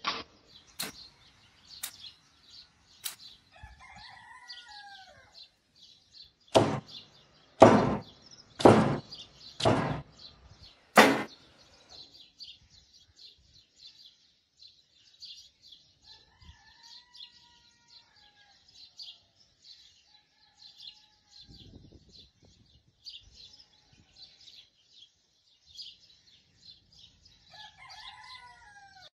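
Birds chirping continuously, with a few falling bird calls. Five loud, short, sudden sounds come about seven to eleven seconds in, and there are lighter sharp clicks in the first few seconds.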